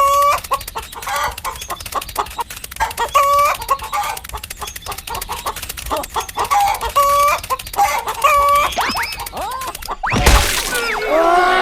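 Chickens clucking, with repeated short pitched calls over quick clucks. A loud rough burst about ten seconds in is followed by a wavering call.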